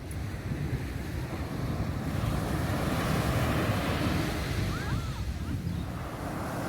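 Sea waves washing onto the beach, swelling louder in the middle, with wind buffeting the microphone.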